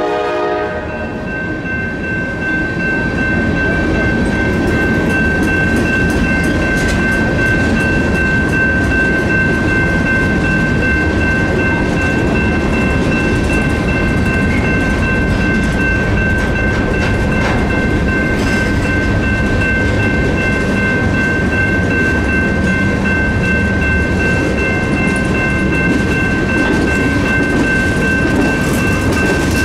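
A train rolling past: a steady rumble of wheels on rail, with a thin steady high-pitched tone over it. The train horn cuts off right at the start.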